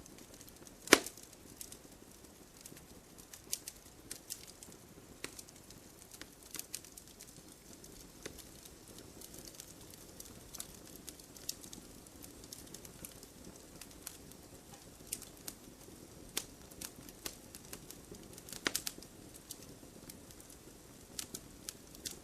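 Wood fire burning in a fireplace: scattered sharp pops and snaps over a soft steady hiss, with louder snaps about a second in and again near the end.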